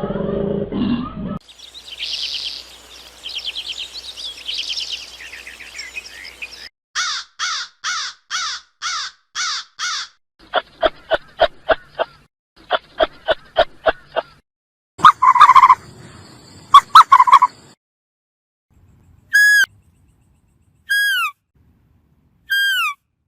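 A run of different bird calls, one recording after another: a high trilling song, then a string of evenly repeated calls, two quick series of short calls, loud calls, and near the end three short downward-sliding whistles.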